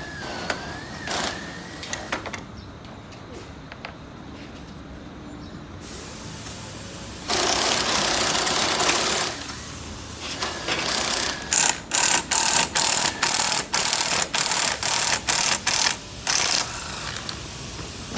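Air-powered shop tool running in one steady stretch of about two seconds, then in a quick series of short bursts, about two a second.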